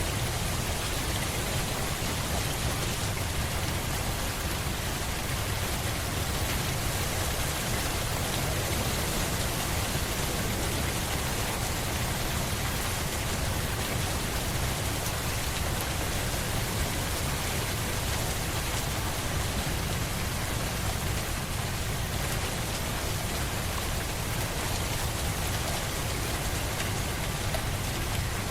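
Steady heavy rainfall: an even, unbroken hiss with a strong low rumble underneath.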